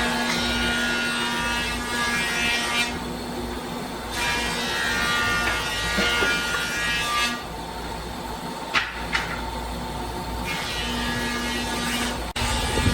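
Electric woodworking power tool running with a steady motor hum, rising into a high whine in repeated cutting passes of a few seconds each, with a couple of sharp clicks near the middle.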